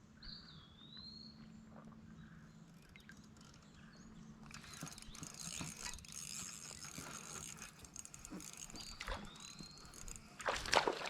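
A bird's short slurred whistle that dips and rises again, heard twice about eight seconds apart, over a hiss of outdoor noise that grows in the second half. Just before the end a brief burst of knocks and splashing is the loudest sound.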